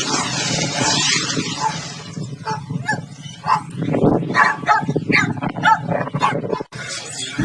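A dog barking in a run of short, separate barks, after a couple of seconds of noisy hiss.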